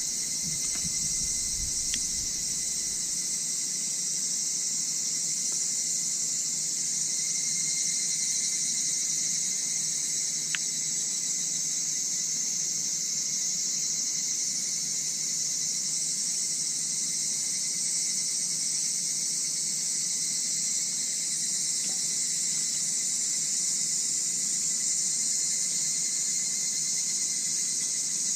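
Steady, continuous chorus of night insects, a high shrill drone that does not let up.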